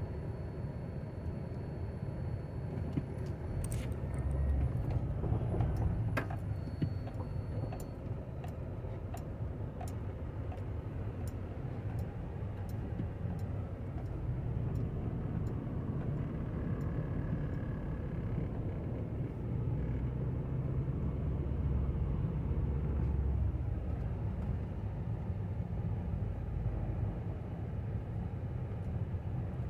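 Car interior road noise: a steady low rumble of a vehicle driving, with a few sharp clicks and a run of light, evenly spaced ticks in the first half.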